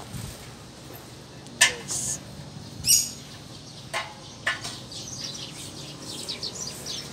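Small birds chirping. A few sharp high chirps and clicks come in the first half, the loudest about one and a half seconds in, then a run of quick, short twittering calls toward the end.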